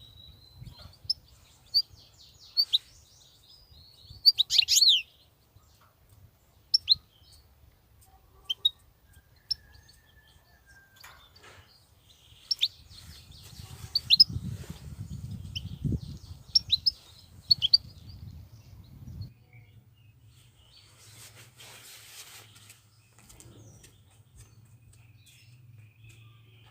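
European goldfinch giving short, sharp chirping call notes, scattered singly and in quick clusters. A low rumble runs underneath for a few seconds midway.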